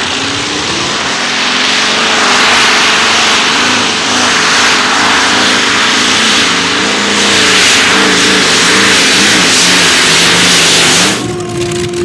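Tractor-pulling tractor's big engine running flat out under load during a pull, its pitch wavering up and down. It cuts off abruptly about eleven seconds in, leaving a steady lower tone.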